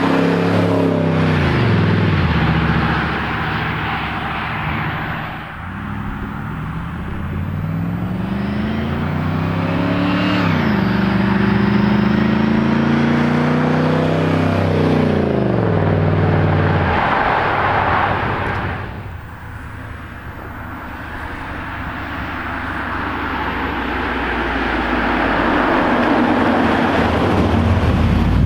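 Mercedes W126 V8 running through a Magnaflow muffler with the resonator deleted, accelerating: the engine pitch climbs, drops suddenly about ten seconds in as it shifts, climbs again and then falls away, followed by steadier road and engine noise.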